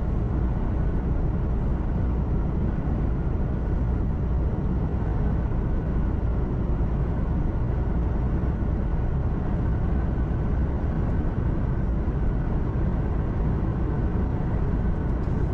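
Steady drone of a truck's engine and road noise heard from inside the cab while driving, mostly deep rumble with a faint steady whine above it.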